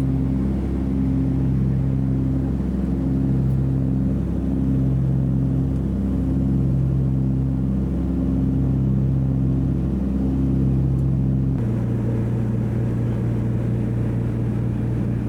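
Two Pratt & Whitney R-1830 radial engines of a DC-3 droning in flight, heard from inside the cabin, with a slow throb about once a second as the two engines run slightly out of sync. About three-quarters of the way through, the sound changes abruptly to a steadier drone without the throb.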